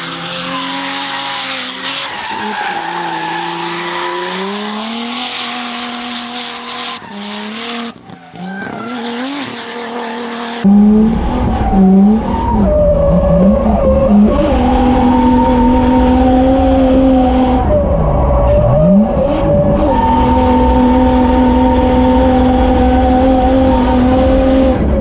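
Nissan R31 Skyline drift car engine revving up and down with tyres squealing and skidding. About eleven seconds in it turns suddenly louder and deeper, the engine heard from inside the car holding high revs with a few brief drops as the driver lifts or shifts.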